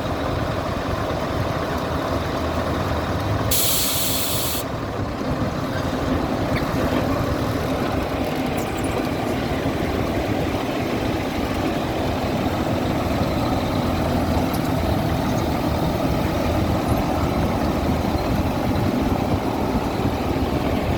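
Caterpillar motor grader running steadily as it works. A sharp hiss of released air lasts about a second, some three and a half seconds in.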